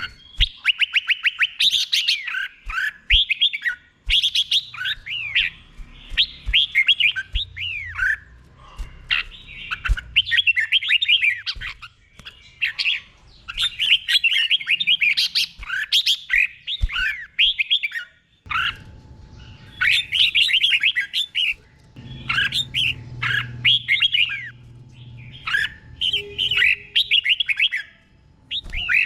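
Red-whiskered bulbul singing: one phrase after another of quick, bright whistled notes, each phrase a second or two long with short pauses between them.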